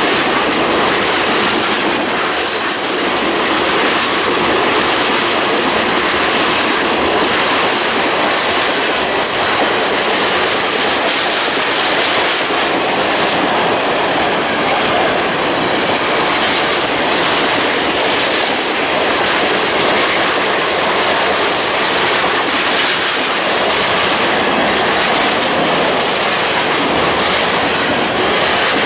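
Freight train cars rolling steadily past, wheels clacking over the rail joints, with a few brief high wheel squeals.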